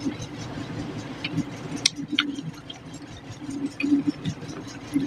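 Close-miked eating: a man chewing a mouthful of fish curry and rice, with scattered sharp mouth clicks and lip smacks, the loudest about two seconds in, over a steady low hum.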